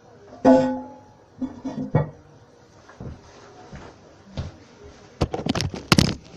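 Porcelain lid of a Kohler Wellworth toilet tank being handled and set back in place. A loud clank with a brief ringing tone comes about half a second in, then a few lighter knocks, and a quick run of clattering and scraping near the end.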